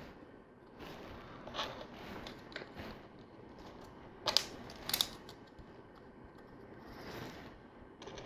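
LEGO pieces being handled and pressed together: scattered small plastic clicks and light rattling, with two sharper clicks close together a little past the middle.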